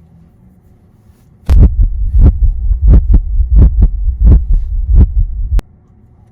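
Heartbeat sound effect: a low rumble with paired thuds at a steady pace, starting about a second and a half in and cutting off suddenly near the end.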